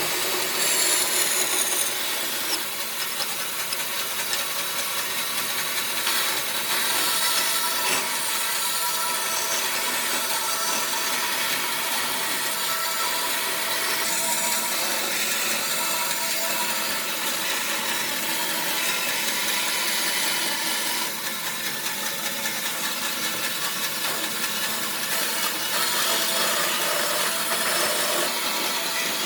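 A power tool working on wood, running steadily with small dips and rises in level.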